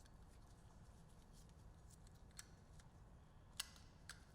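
Near silence with a few faint metallic clicks, the plainest about three and a half seconds in: a rear brake pad clicking against the caliper bracket as it is pivoted into place.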